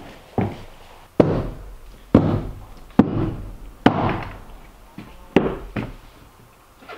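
Hammer blows on the OSB subfloor of a timber frame cabin, about one a second and each fading quickly, as the floor sheets are nailed down.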